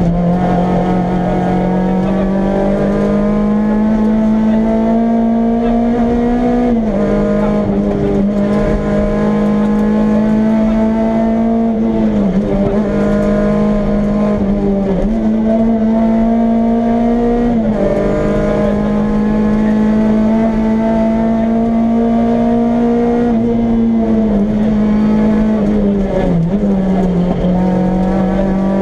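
Renault Clio Williams rally car's four-cylinder engine heard from inside the cabin, running hard at high revs on a stage. Its pitch climbs and then drops sharply about five times, at gear changes and lifts.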